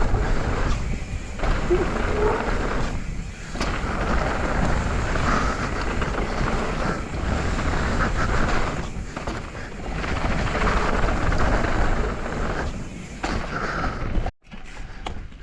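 Wind buffeting an action-camera microphone and a mountain bike rolling fast over a dirt trail: a loud, steady rumble with short lulls every few seconds. It cuts out sharply for a moment near the end.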